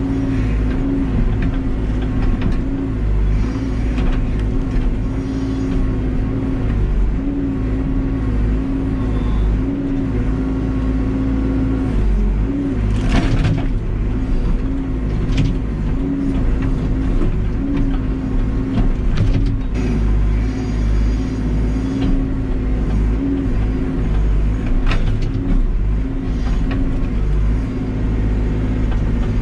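Cat backhoe's diesel engine running steadily at working speed, its pitch dipping and recovering again and again as the hydraulics take load. A few sharp knocks or cracks come partway through.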